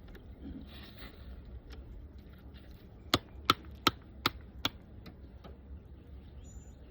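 Five sharp knocks on wood in quick, even succession, a little under half a second apart, as the wooden cover boards of a long beehive are tapped into place.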